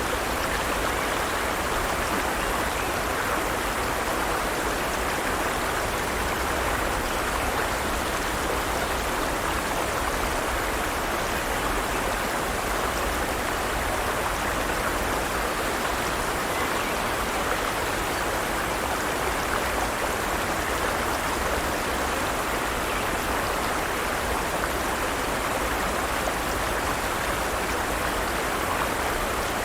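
Forest stream running over rocks, a steady, even rush of water.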